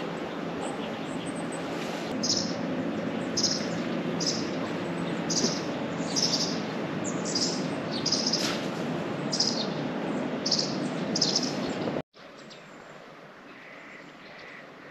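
A bird repeating a short, high chirp about once a second over a steady rushing background. After a sudden cut near the end the background is quieter, with softer, lower chirps.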